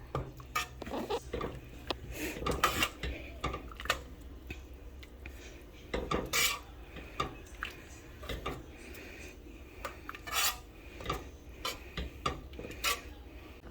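Cooked beans being mashed with a bean smasher in a metal pot: irregular clanks and scrapes of the masher against the pot, with soft squishing.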